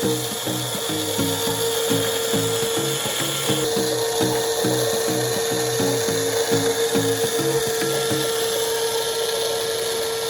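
Small electric motor and plastic gearing of a toy RC concrete mixer truck running with a steady whine, over a rapid ratcheting clatter at about four clicks a second.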